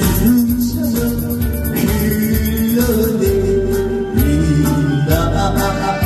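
A song sung over a backing track with a steady drum beat and ticking hi-hat; the voice holds long drawn-out notes.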